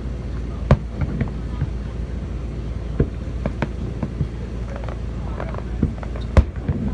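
Fireworks bursting: a string of sharp bangs at irregular intervals, the loudest near the end, over a steady low rumble and faint crowd voices.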